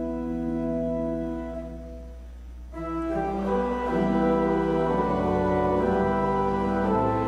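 Church organ playing long held chords; about three seconds in it gets louder and fuller, with moving notes over the held ones.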